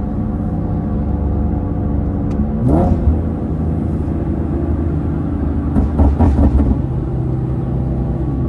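Infiniti G37's 3.7-litre V6 running through a loud aftermarket exhaust while driving, with a quick rev rising in pitch about two and a half seconds in and a louder burst of revving around six seconds in.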